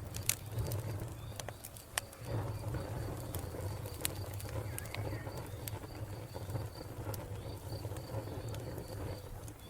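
Wood fire crackling with sharp pops over a steady low rumble, while crickets chirp in a quick, even pulse and a bird calls.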